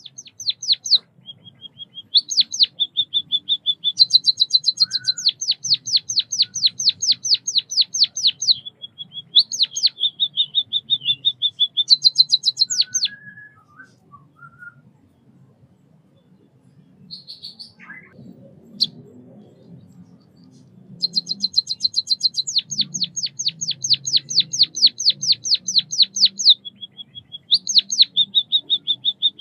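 White-headed munia singing: long runs of rapid, high clicking notes, about four a second, broken by short buzzy trills. The song stops for several seconds near the middle, leaving only a few faint calls, then starts up again.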